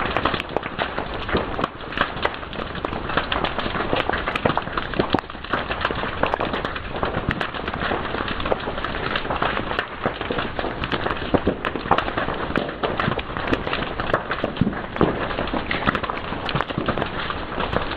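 Fire crackling and popping steadily, with many sharp snaps over a constant hiss.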